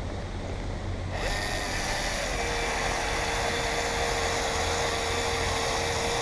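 Battery-powered caulking gun motor starting about a second in and running with a steady whine as it pushes out a bead of urethane glue.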